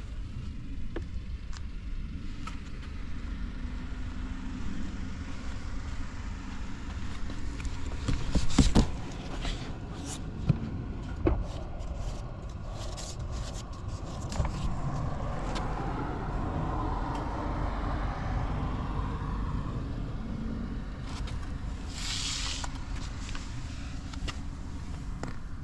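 Suzuki Address V125S scooter's single-cylinder engine running steadily at idle with no abnormal noise, and a brief louder surge about eight seconds in. A few sharp clicks and a short hiss near the end.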